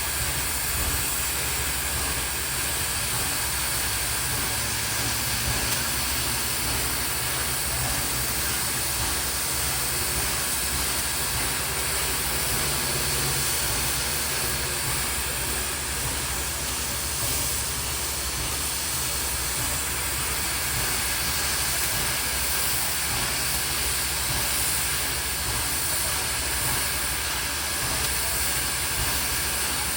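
Steady hissing noise with a faint low hum underneath, unchanging throughout.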